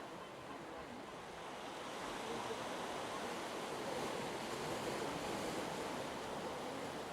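Sea surf washing in: a steady rush of waves that swells about two seconds in.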